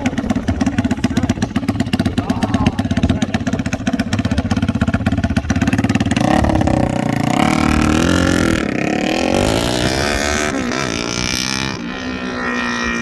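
A loud car engine running with a fast pulsing exhaust note, then revving up with rising pitch from about six seconds in and easing back down near the end.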